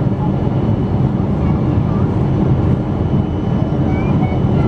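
Steady roar inside the cabin of a Boeing 777-200 airliner: jet engine and airflow noise, even and unbroken.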